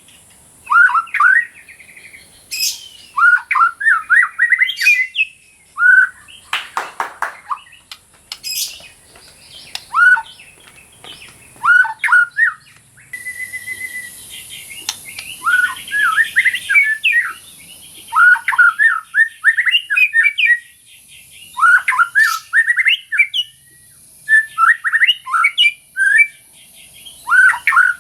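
White-rumped shama (murai batu) singing a long run of short, varied phrases of rising and falling whistles, a phrase every second or two with brief pauses between.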